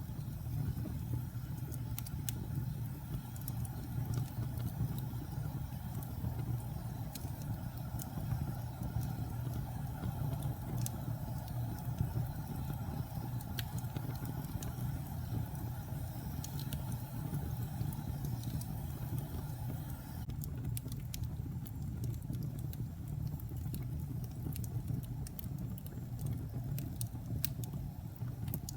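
Fire burning in a fireplace: a steady low rumble of flames with scattered sharp crackles and pops. The higher hiss thins out about two-thirds of the way through.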